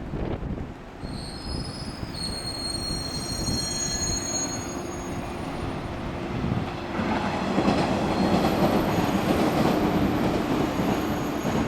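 A 115-series electric train coming into the station: several high squealing tones from the wheels and running gear for the first few seconds, then a louder rolling rumble from about seven seconds in as the cars pass close by.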